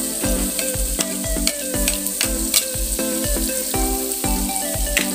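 Chopped onion sizzling as it fries in hot melted butter and oil in a skillet, over background music with a steady beat.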